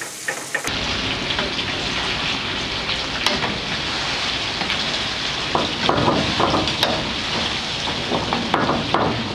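Shrimp sizzling in hot olive oil in a pan of gambas al ajillo: a steady, dense crackle of frying oil, with occasional clicks of tongs turning the shrimp.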